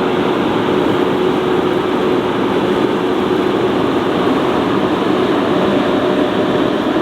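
A vehicle running steadily: an even engine drone with a faint held tone, with no change in pace.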